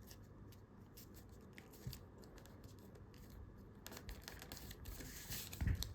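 Faint rustling and crinkling of a folded A4 paper plane being handled and creased by hand, in scattered small clicks that grow busier toward the end, with a soft low thump shortly before it ends.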